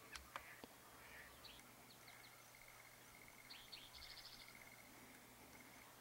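Faint songbird calls: a long, even trill and scattered short high chirps, with a few soft clicks in the first second.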